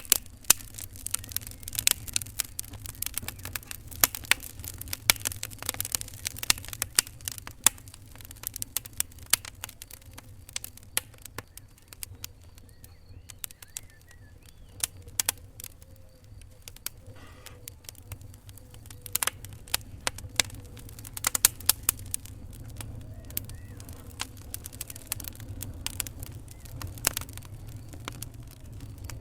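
Wood fire in a fireplace crackling, with many irregular sharp pops of varying loudness over a steady low rumble.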